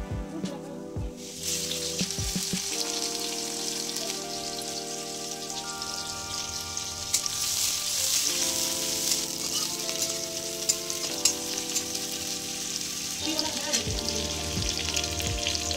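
Food frying in hot oil in a pan: a steady sizzle that starts about a second and a half in, with a few clicks of a utensil against the pan.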